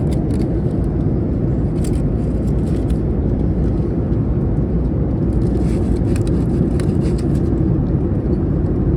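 Steady low rumble of cabin noise inside a Boeing 737 MAX 8 airliner, from engines and airflow, with faint scattered clicks and rattles.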